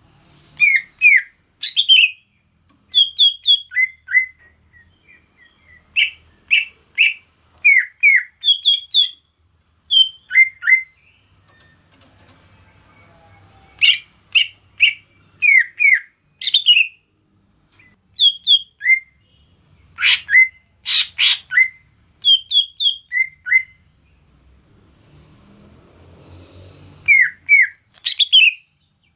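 Cucak ijo (greater green leafbird) singing: short clusters of clear whistled and chirped notes, a few at a time, with brief pauses between them, over a steady high hiss.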